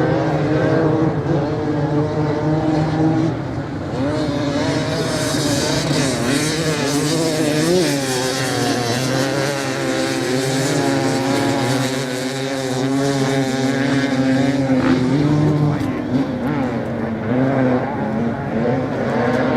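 Several racing motorcycles on a sand track with overlapping engines, revving up and down as they pass and accelerate, with a loud hiss that builds about four seconds in.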